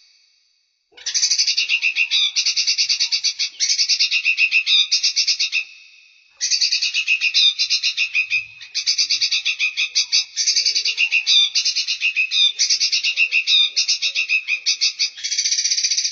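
Small songbird singing rapid, buzzy rattling trills in phrases of one to two seconds, nearly back to back, starting about a second in with a short break near six seconds.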